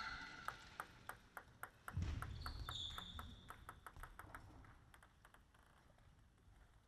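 Table tennis ball bouncing, a run of light sharp clicks that come quicker and fainter.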